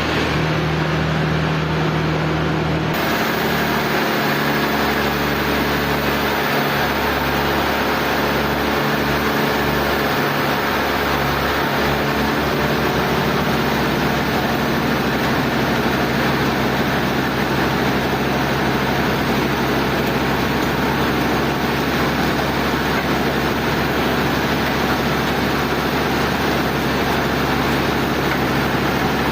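Sawmill machinery running steadily, a constant engine hum. The sound changes abruptly about three seconds in, then stays steady.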